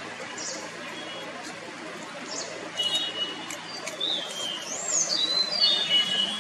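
White-bellied sholakili (white-bellied blue robin) singing: a few short high thin notes, then from about three seconds in a phrase of clear whistled notes that rise and fall. A steady hiss runs underneath.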